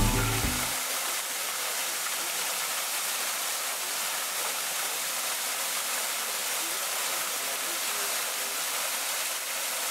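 Steady rush of falling water from a waterfall, an even hiss with little bass. Background music ends within the first second.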